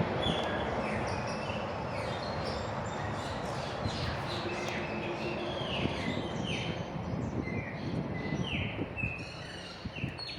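Chopi blackbirds calling: a run of short, clear whistled notes, many sliding downward, repeated every half second or so over steady background noise.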